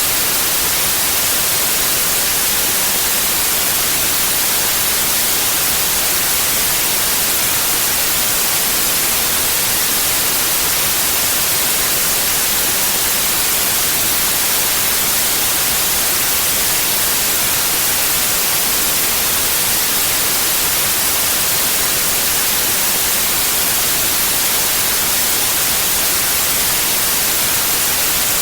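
Steady white noise: an even hiss across the whole range, brightest in the treble, at a constant loud level with no changes.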